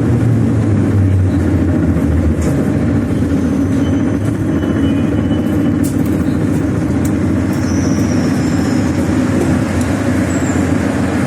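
Inside a Soviet-type 81-717/714 'Nomernoy' metro car running between stations: a steady, loud rumble of wheels on rails and running gear. A low hum fades away over the first couple of seconds.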